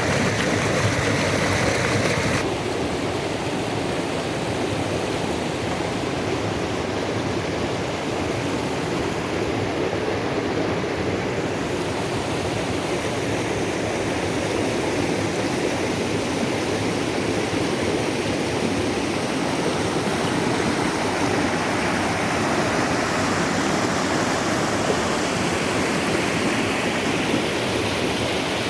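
Mountain river rushing steadily, a dense continuous water noise; its sound becomes slightly duller about two seconds in.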